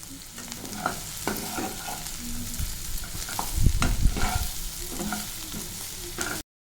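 Food sizzling in hot oil in a pan while being stirred, with scattered clicks of the spoon on the pan and a few louder low thumps about three and a half to four seconds in. The sound cuts off suddenly near the end.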